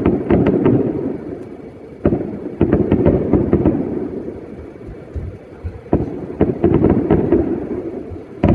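Aerial fireworks bursting. There is a sudden bang about two seconds in and another near six seconds, each followed by a rapid string of sharp crackling reports and a fading rumble, and a fresh burst comes right at the end.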